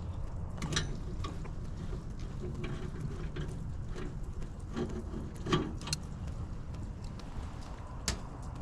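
Scattered small clicks and taps of hand work on a gas furnace's flame sensor and its mounting, over a low steady rumble.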